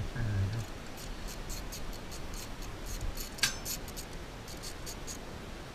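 Irregular light clicks and scrapes, coming a few at a time, with one sharper click about three and a half seconds in.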